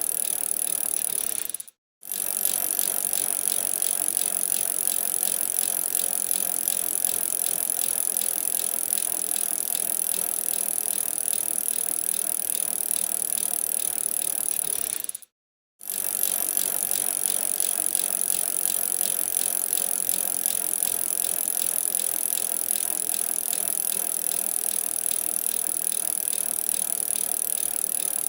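Bicycle being ridden on a winter ride, with a steady rattle of its parts and rolling noise. It cuts out briefly twice, about two seconds in and about fifteen seconds in.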